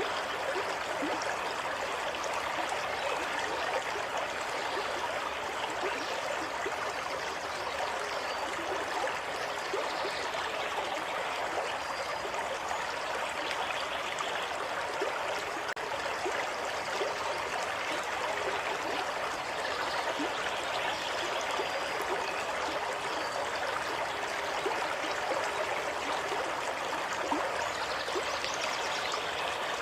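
Water running steadily in a shallow stream, with small trickling and bubbling splashes.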